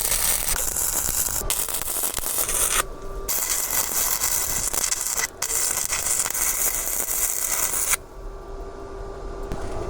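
Electric arc welder sizzling in three runs, with short breaks about 3 and 5 seconds in, stopping about 8 seconds in: tack-welding a steel bracket onto a mini bike exhaust.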